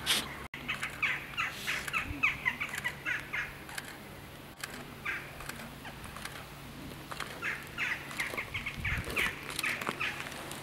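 Birds calling: rapid runs of short, sharp calls in two spells, with a quieter stretch in the middle.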